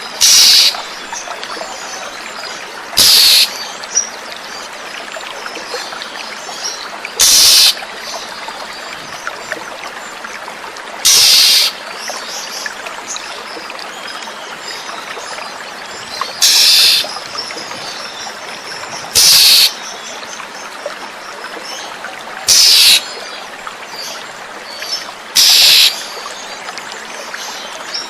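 Oriental magpie-robin (kacer) giving short, high calls, one about every three to four seconds, over steadily trickling running water.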